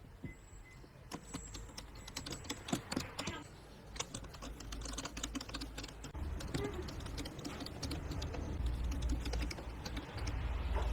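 Rapid, irregular clicking and tapping of small hard parts being handled, with a low rumble coming in about six seconds in.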